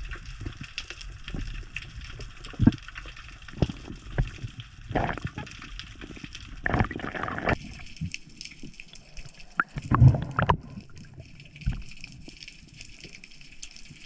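Sea water sloshing and gurgling around a spearfisher, with scattered knocks and several short gushes, the loudest about ten seconds in.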